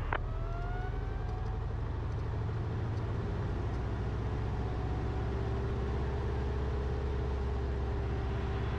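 Cessna 172RG's four-cylinder Lycoming aircraft engine being run up for the pre-takeoff check: its note rises over the first second or so, then holds steady at run-up power.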